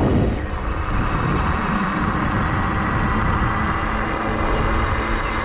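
Wind rushing and buffeting over the microphone with tyre noise from the fat-tire e-bike under way, a little louder right at the start. Underneath runs a faint, steady high whine from the Bafang BBS-HD mid-drive motor, rising slightly in pitch.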